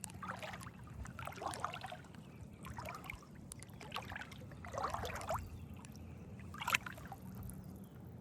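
Paddleboard paddle strokes dipping and splashing in the water, about one stroke a second, the sharpest splash near the end, over a steady low hum.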